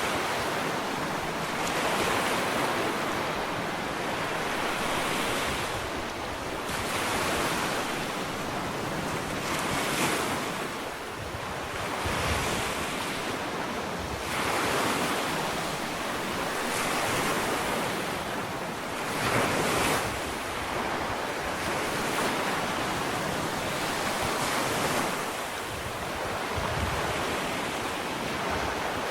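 Ocean waves washing onto a sandy beach, a continuous surf wash that swells and falls every two to three seconds, with some wind on the microphone.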